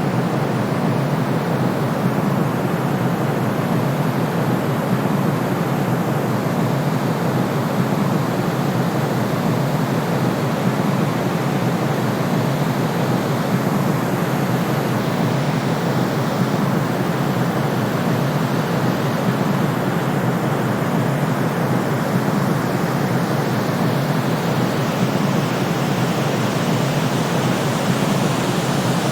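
Steady synthetic noise, a constant, even hiss weighted toward the low end, with no change or events.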